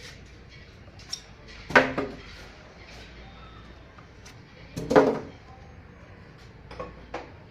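Two loud clanks about three seconds apart, each with a short ringing tone, and a few lighter knocks, like hard objects being knocked about.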